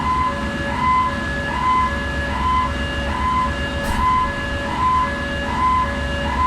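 A steady low machinery hum with a repeating two-tone alarm signal over it, a higher and a lower tone alternating about every 0.4 s. There is a single faint click about four seconds in.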